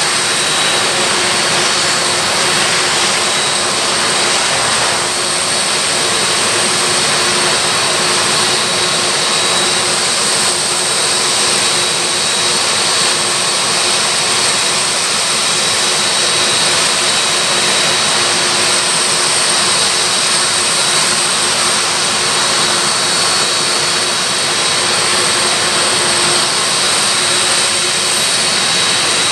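Boeing 747-400F turbofan jet engines running on the ground during engine start-up: a steady rush with a constant high whine.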